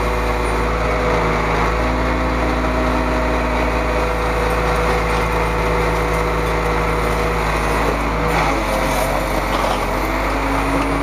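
Truck engine running steadily, its tone shifting slightly about two seconds in and again about eight and a half seconds in.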